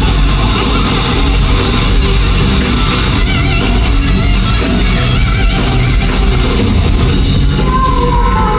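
Live rock band playing loud, heavy rock with electric guitar to the fore, at a steady level throughout.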